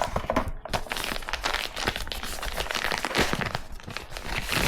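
Crinkling and tearing of a thin plastic wrap being pulled open by hand, a dense run of irregular crackles.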